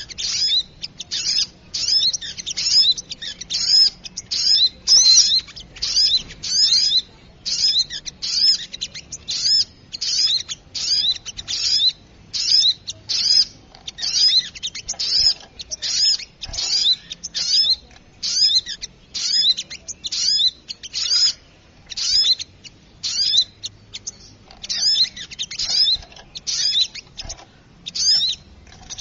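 Spiderhunter (sogok ontong) calling in a noisy bird-lure recording: high, sharp chirping notes in quick bursts, about one and a half a second, with a few brief pauses.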